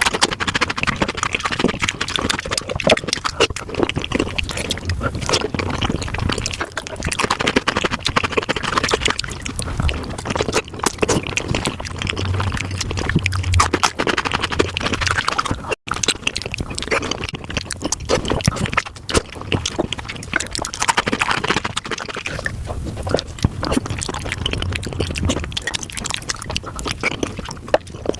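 Mukbang eating sounds sped up about five times: a dense, rapid run of wet chewing, smacking and slurping clicks from someone eating spicy beef feet, cutting out for an instant about halfway through.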